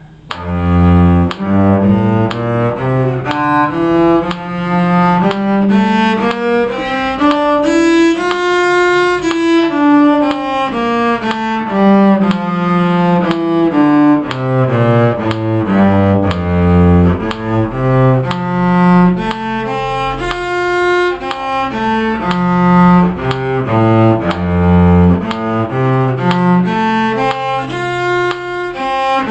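Cello playing a two-octave F major scale in separate bowed notes, climbing to the top about eight seconds in and coming back down, then carrying on in further stepwise passages.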